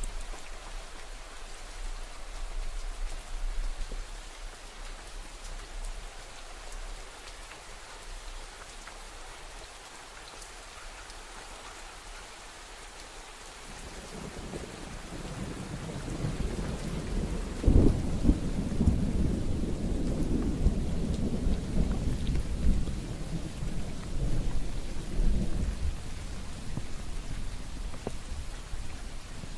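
Steady rain falling, with a roll of thunder that builds about halfway through, peaks in a sharp loud crack a few seconds later, then rumbles on and fades near the end.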